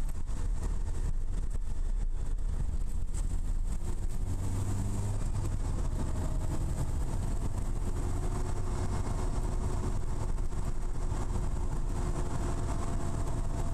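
Lotus Elise S1's Rover K-series four-cylinder engine running at a steady cruise, with road and tyre noise, heard from inside the small cabin. The engine note swells briefly about four seconds in.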